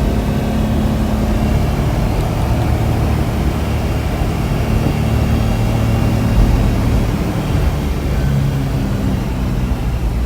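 1990 Suzuki 4x4 mini truck's three-cylinder engine pulling steadily under load as the truck climbs a hill in fourth gear and accelerates, a sign of good compression and engine power.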